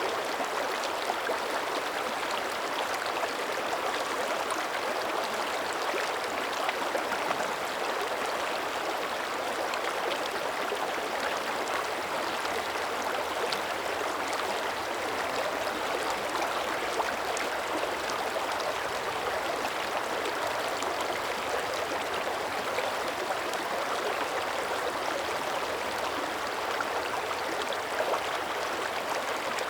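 Shallow mountain creek running steadily over rocks, a continuous splashing and burbling with small droplet ticks, its current still flowing beneath thin early-winter surface ice.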